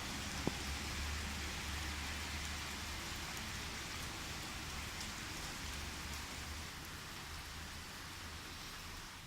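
Steady rain falling during a thunderstorm, an even hiss with a low rumble underneath that is strongest in the first few seconds. A single sharp tick comes about half a second in.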